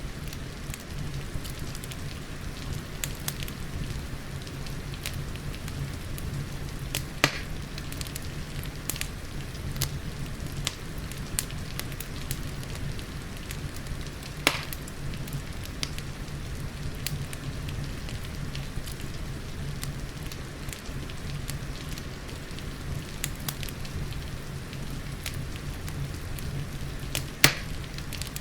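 Wood fire crackling with frequent small clicks and three louder pops, about 7, 14 and 27 seconds in, over a steady hiss of rain and a low rumble.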